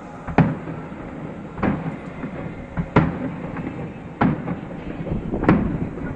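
Fireworks shells bursting: five sharp booms at an even pace, about one every second and a quarter, each trailing off briefly.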